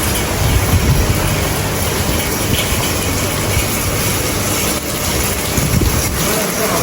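Heavy rain pouring steadily, with a low uneven rumble underneath.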